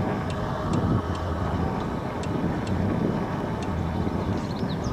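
Steady wind rushing over the microphone, mixed with the rolling rumble of an electric bike's tyres on the trail while riding. A few short high chirps come in near the end.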